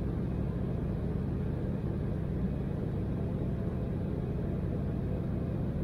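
Steady low rumble inside the cabin of an Embraer 175 airliner in its climb after takeoff, its GE CF34-8E turbofan engines running at climb power, heard from a window seat by the engine.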